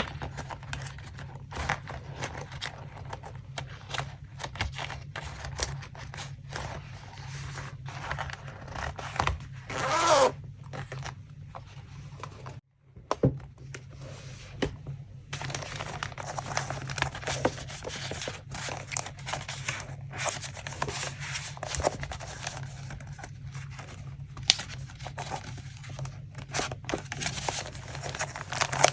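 Paper being handled for a collage: rustling, crinkling and short crisp snaps of paper, with one louder tearing rasp about a third of the way in. A brief gap breaks it near the middle, and a steady low hum runs underneath.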